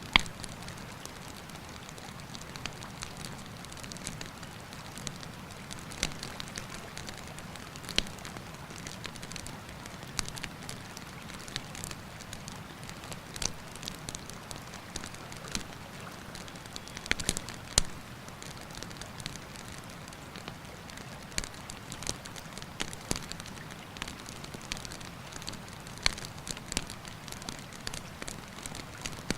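Wood campfire crackling, with irregular sharp pops and snaps over a steady rush of flowing river water. The loudest snap comes right at the start.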